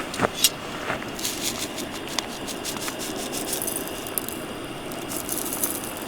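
Wood fire crackling in a campfire grill, with scattered sharp pops over a steady low hiss.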